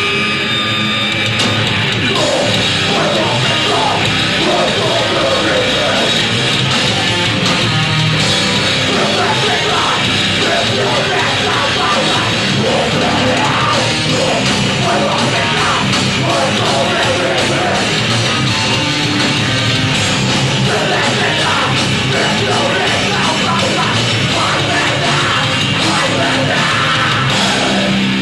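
Heavy rock band playing live and loud, with shouted vocals over the band.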